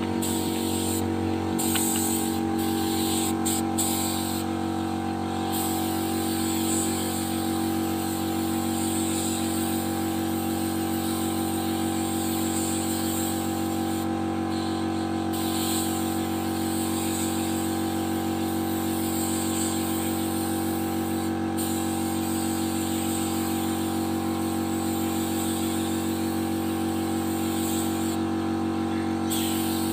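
Spray-painting gun hissing in long stretches, cut off briefly several times as the trigger is let go, over a steady machine hum.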